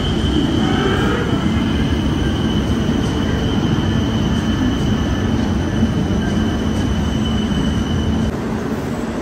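An LRT-1 light-rail train pulls into an elevated station along the platform, its wheels and running gear rumbling. A steady high whine runs over the rumble and cuts off about eight seconds in, where the sound also drops in level.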